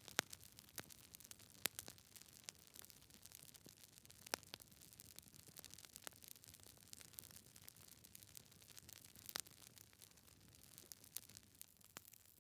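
Wood logs burning in a fireplace, crackling with irregular sharp pops, a few louder ones standing out, over a faint low rush of the flames.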